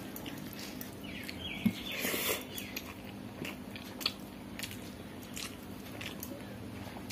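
Eating sounds: chewing and small wet mouth clicks as rice is eaten by hand, with fingers working rice on a banana leaf. A low steady hum lies underneath.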